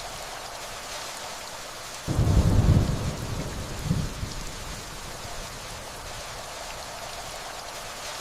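Steady rainfall with a low rumble of thunder that begins suddenly about two seconds in, swells once more a moment later and fades away.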